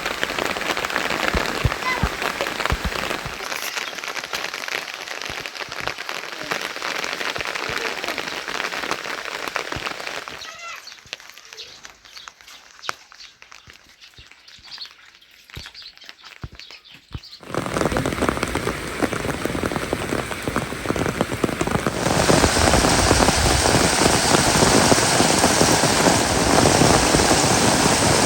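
Heavy monsoon rain falling steadily. About ten seconds in it thins to a few scattered drops for several seconds, then comes back suddenly and grows heavier still a few seconds later.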